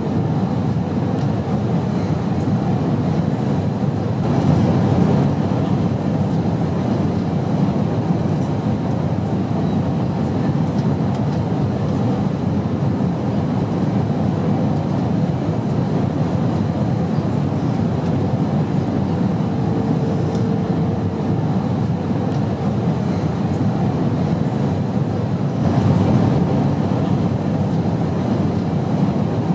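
Steady, low airplane noise, an even rush with no breaks that swells slightly twice, and a faint hum comes in briefly about two-thirds of the way through.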